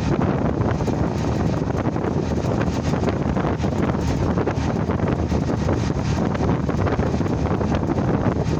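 Strong wind buffeting the microphone: a steady, dense rumble with no let-up.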